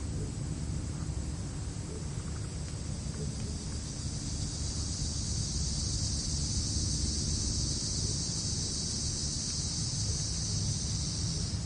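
Crickets trilling in grass. The high, steady trill grows louder about a third of the way in and stops abruptly near the end, over a low wind rumble.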